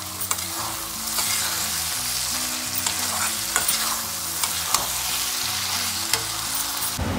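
Mutton pieces frying in a thick masala in a black kadai, sizzling steadily as a steel spoon stirs and turns them. The spoon scrapes and clicks against the pan, and the sizzle grows louder about a second in.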